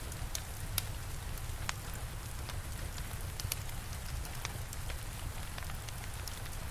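Steady rain hissing, with a fire crackling in irregular sharp pops and a low rumble underneath.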